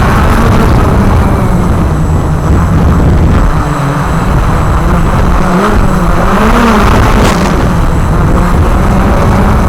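Walker QR X350 Pro quadcopter's motors and propellers running in flight, their pitch wavering up and down as the throttle changes, over a heavy low rumble.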